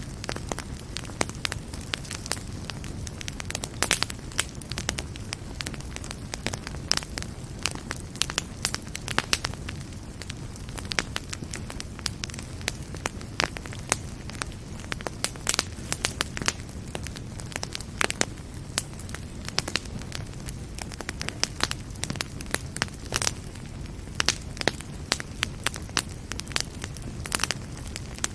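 Fireplace fire crackling, with frequent irregular sharp pops over a steady low rumble of flames.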